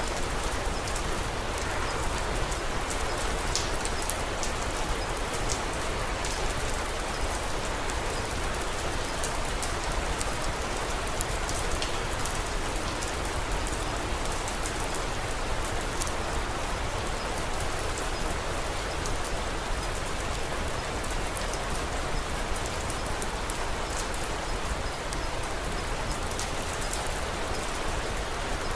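Steady rain falling, with a wood fire crackling in small sharp ticks throughout.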